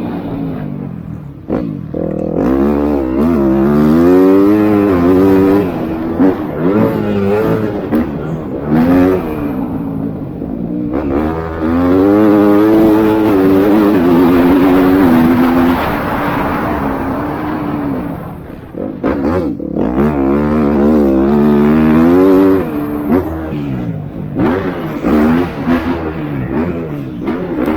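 Motocross bikes racing: dirt-bike engines revving hard, their pitch climbing and dropping over and over as riders open the throttle and shift gears.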